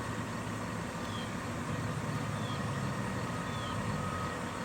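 Fire truck engine running steadily at idle, a low rumble with no siren. Faint short chirps come in about once a second.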